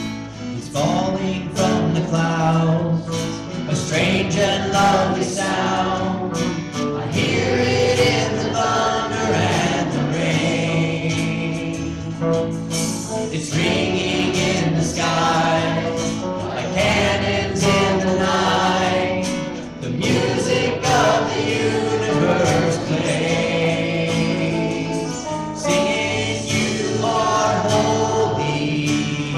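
A Christian worship song sung by a group of voices over strummed acoustic guitar.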